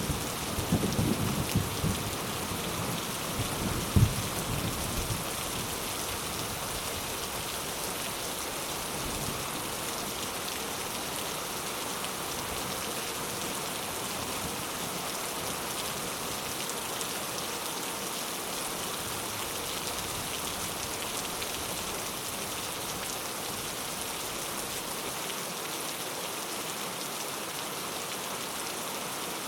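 Steady rain falling, an even hiss throughout. The tail of a low thunder rumble fades out over the first few seconds, with one short low boom about four seconds in.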